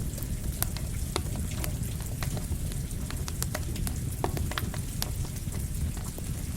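Campfire crackling and popping with irregular sharp snaps, over a steady rushing bed of falling rain.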